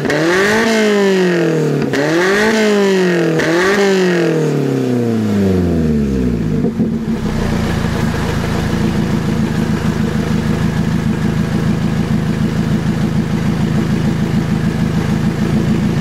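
Lotus Elise engine revved through a one-off valved muffler with the exhaust valve open: several quick throttle blips rising and falling in pitch, then the revs drop away and it settles to a steady idle about six seconds in.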